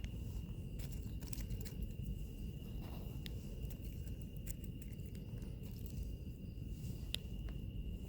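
Wood fire crackling, with irregular sharp pops over a low rumble, and a steady high insect trill running underneath.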